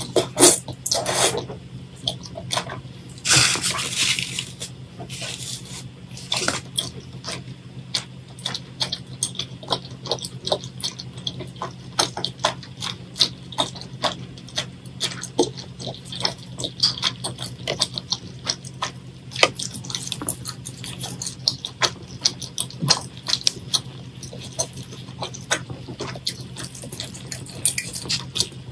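Close-miked eating sounds: wet chewing, smacking and clicking of the mouth on saucy, chewy rice cakes, with a couple of louder wet bursts in the first few seconds. A steady low hum runs underneath.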